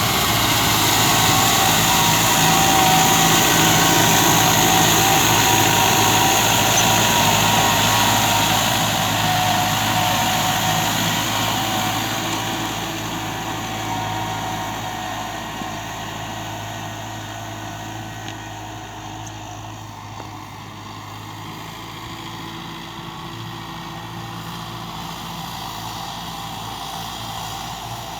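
Tractor engine running steadily, loudest over the first several seconds and then slowly fading as it moves away.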